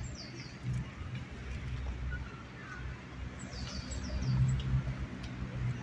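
A songbird chirping in quick runs of short, high, falling notes, near the start and again from about halfway on, over the low hum of a car engine running, which is loudest a little after halfway.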